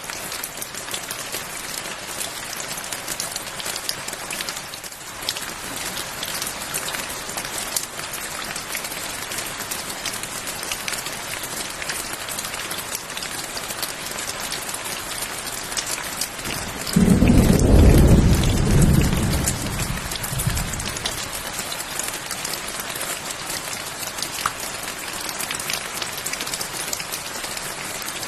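Steady rain falling, a dense hiss of drops pattering on a surface. About two-thirds of the way in, a roll of thunder rumbles low for about four seconds, loudest at its start, then fades back under the rain.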